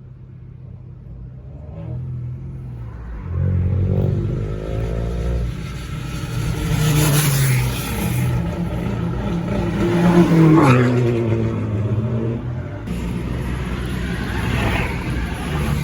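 Car engines revving hard, the engine note climbing and falling repeatedly and loudest about ten seconds in.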